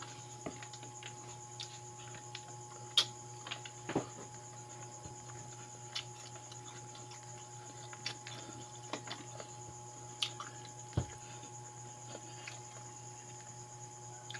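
Close-up chewing and lip-smacking of a person eating pansit noodles and fried dried fish by hand. It comes as scattered small wet clicks, with a few sharper ones, over a steady background hum.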